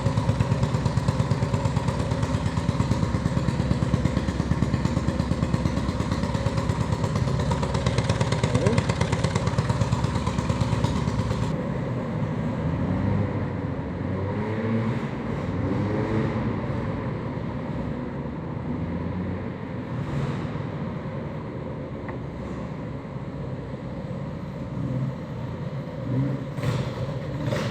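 A small moped engine running steadily with a fast, even pulse close to the microphone. About eleven seconds in, the sound cuts to a quieter, steadier engine hum with faint voices.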